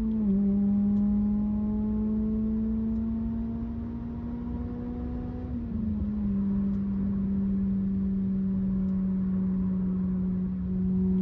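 Acura RSX Type-S four-cylinder engine with an Invidia N1 cat-back exhaust, holding a steady droning tone while the car is driven. The pitch dips at the start, creeps up slowly for about five seconds, dips again about six seconds in, then holds steady.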